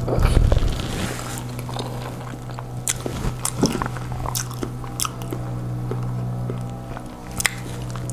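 Close-miked eating sounds of a person biting and chewing a sauce-covered boiled egg, with scattered wet mouth clicks, over a steady low hum.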